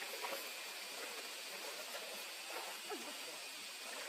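Steady, faint hiss of outdoor background noise, with a couple of faint short sounds, one near the start and one about three seconds in.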